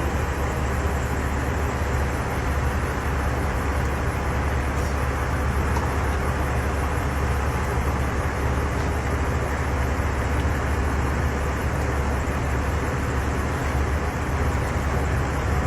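Semi-truck diesel engine idling, a steady low rumble that holds unchanged throughout.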